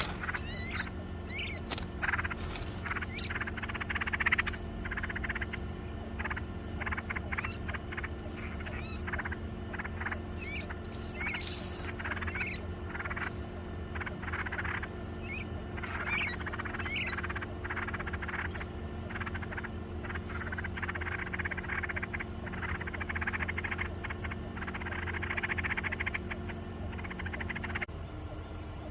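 Nestlings calling from the nest: a busy run of short chirps and squeaks, turning into longer rasping begging calls in the second half, over a steady hum.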